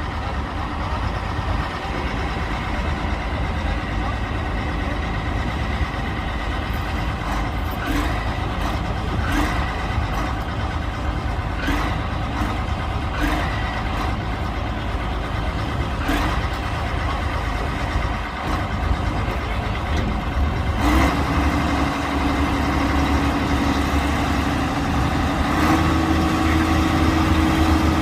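Tractor engine running steadily, its note rising to a higher steady speed about three-quarters of the way through and again a little later.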